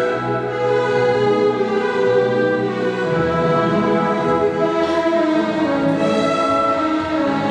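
Orchestral classical music with bowed strings playing sustained melodic lines. The lower instruments come in more fully about three seconds in.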